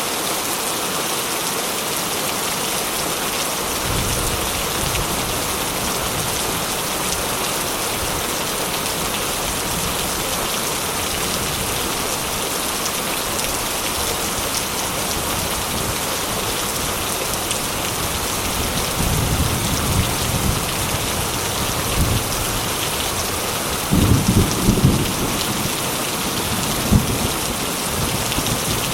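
Heavy rain falling steadily, with thunder rumbling low several times; the loudest roll comes a little past two-thirds of the way through.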